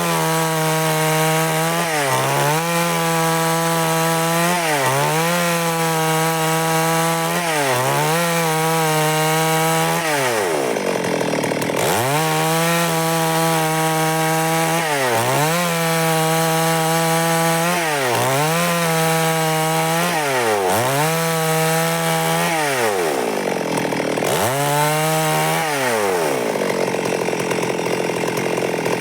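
Stihl MS382 two-stroke chainsaw running at high revs while cutting wood. Its pitch dips briefly and recovers about every two seconds as it works through the cut, with longer drops about a third of the way in and again toward the end.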